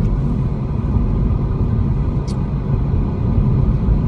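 Steady low rumble of a car's road and engine noise heard from inside the moving car's cabin, with a single faint click a little past two seconds in.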